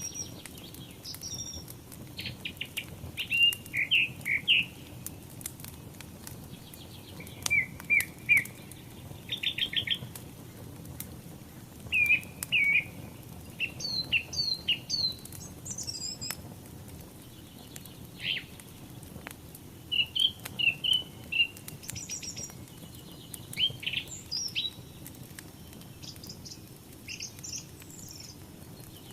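Several songbirds chirping and singing in short, repeated phrases all through, over a low steady background scattered with small crackling clicks from a burning wood fire.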